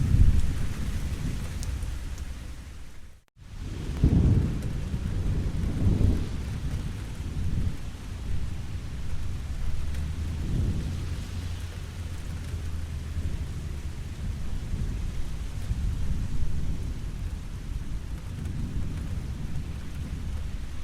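Steady rain falling, with low rolling thunder rumbling again and again underneath it. The sound cuts out for a split second about three seconds in, and a louder rumble follows right after.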